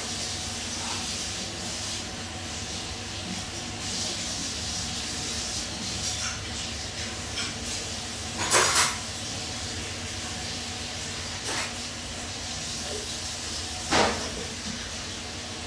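Steady hiss of room tone and microphone noise with a faint hum. Two brief louder noises come about eight and a half and fourteen seconds in.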